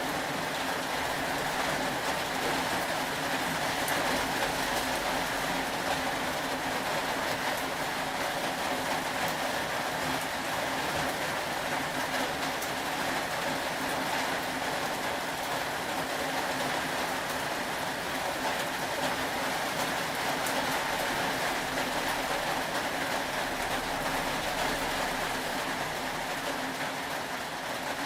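Steady rain falling, an even unbroken hiss, with a faint low steady hum under it.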